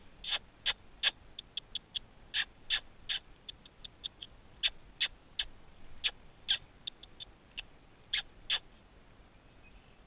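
Small wild songbird calling repeatedly: quick runs of short high notes, each followed by two or three longer, louder notes, repeated several times before falling quiet about nine seconds in.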